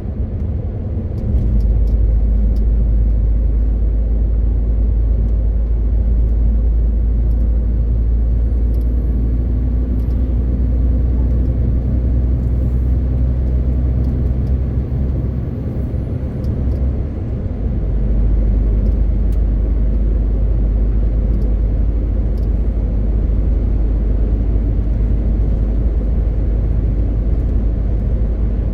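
MAN TGX 18.520 truck's six-cylinder diesel running steadily on the road, a continuous low drone with road noise that eases briefly about sixteen seconds in before picking up again.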